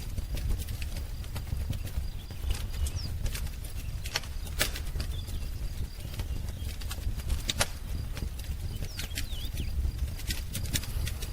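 Wood fire crackling, with irregular sharp pops and snaps over a low steady rumble. A few faint bird chirps come in about nine seconds in.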